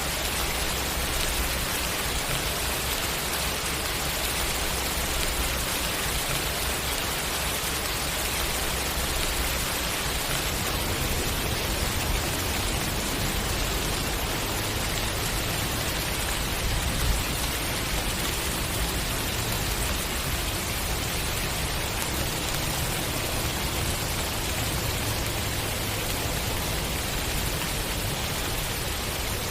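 Steady rain falling, an even hiss without a break, with one brief louder tap a little past halfway.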